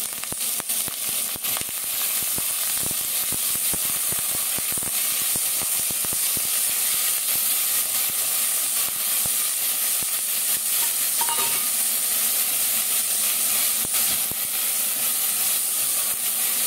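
Shrimp, crab sticks and garlic sizzling in hot oil in a nonstick wok, a steady hiss, while a spatula stirs them with frequent short scraping clicks against the pan.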